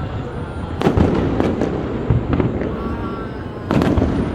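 Aerial fireworks bursting: two big booms, about a second in and near the end, with smaller cracks and pops between them.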